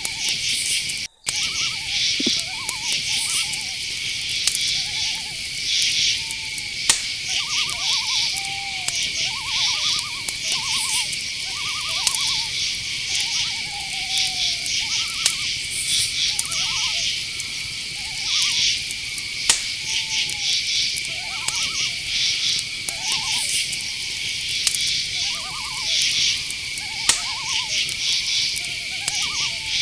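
Night insects, mainly crickets, keep up a steady high trill with pulsed chirping layered over it. Short repeated calls from a night animal, in the manner of owl hoots, come every second or two. The whole bed drops out briefly about a second in.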